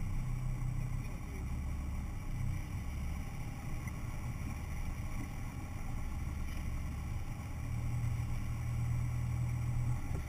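Off-road 4x4's engine running steadily at low revs, its pitch shifting a few times as the throttle changes.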